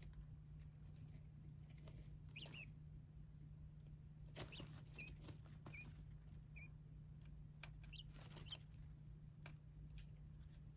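Small pet birds giving faint, short chirps about once a second, with light scratching and tapping clicks, over a steady low hum.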